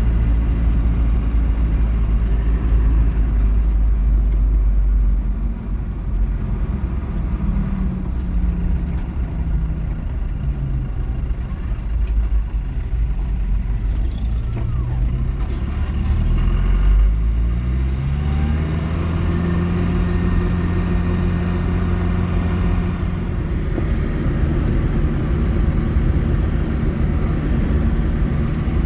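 Motor vehicle engine running while driving. Its pitch slides around, climbs about halfway through as it speeds up, and then holds steady over a low road rumble.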